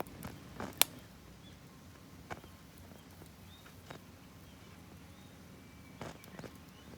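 Wood fire in a small wood stove crackling, with a few sharp pops, the loudest about a second in, over a low steady rumble.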